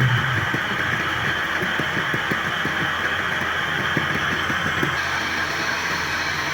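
Steady machine noise with dense, irregular crackling throughout.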